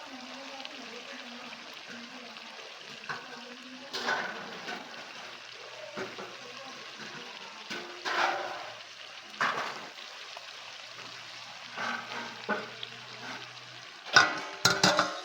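Food frying in a pan with a steady sizzle, while a spoon stirs and scrapes against the pan in short clattering strokes every few seconds, the loudest cluster near the end.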